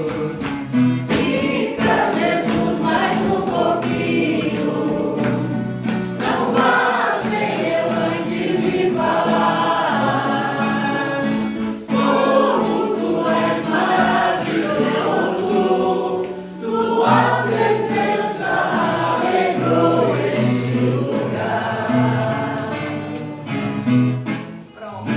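A group of voices singing a worship song together over steady low held accompaniment notes, with a brief break about two-thirds of the way through.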